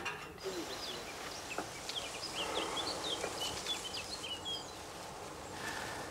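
Small birds chirping, many short, quick high calls scattered over a few seconds, over a steady outdoor background hush.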